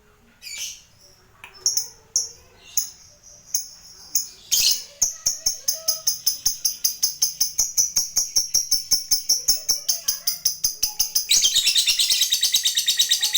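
Lovebird calling: a few separate sharp chirps, then from about five seconds in the long 'ngekek' chatter, a fast, even run of shrill notes at about five a second, which grows louder and denser near the end.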